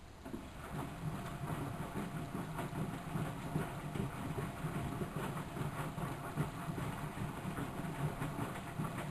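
Miele W763 washing machine starts up right at the beginning and runs on with a steady rumble and fast, irregular rattling from its turning drum.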